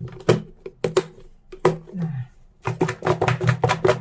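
Plastic lidded food container being handled and snapped shut, a few separate knocks and clicks, then a quick, dense clatter near the end.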